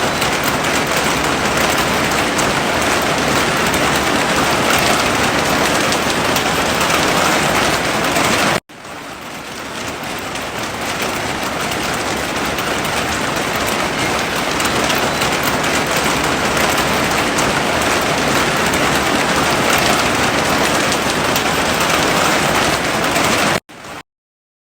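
Heavy rain falling steadily. It cuts off sharply about nine seconds in and fades back up over a couple of seconds, and near the end it drops out to silence for about a second.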